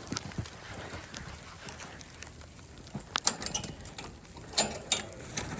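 Footsteps crunching on a crust of sleet: a few sharp crunches about three seconds in and a couple more near the end, over a faint steady hiss.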